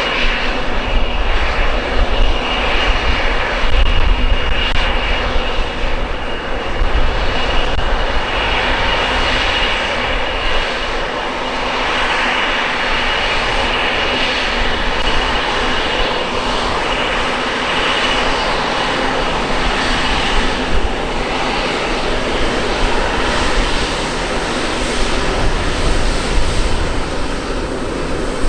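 Jet airliner engines running, a steady loud rush of noise with a thin high whine held throughout and a low rumble underneath.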